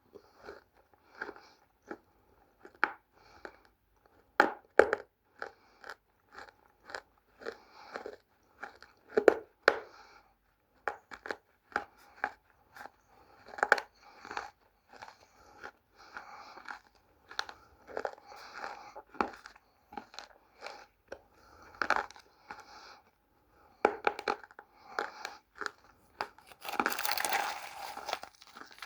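Dry multani mitti (Fuller's earth) clay being bitten and chewed, a long run of irregular crisp crunches, with a denser stretch of crunching near the end.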